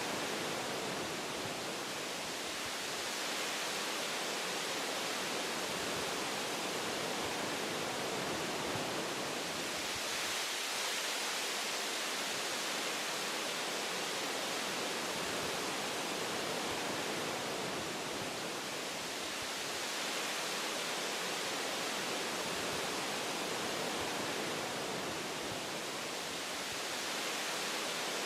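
Wind blowing through forest tree branches and leaves: a steady rushing hiss that rises and eases in gusts, with a stronger gust about ten seconds in.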